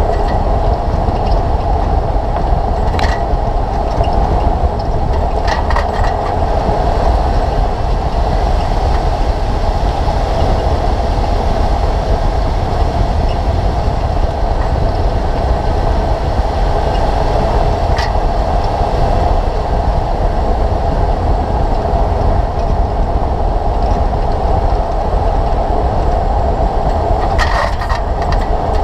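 Steady rolling noise from a 2004 Toyota Tacoma PreRunner on the move, with the noise from its front brakes (swapped-in 2005 Tundra front brakes) running on continuously under a low road rumble. A few short sharp clicks come through now and then.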